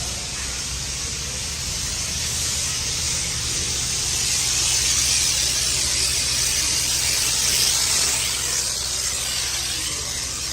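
Pressure washer spraying in a steady hiss, a little louder in the middle.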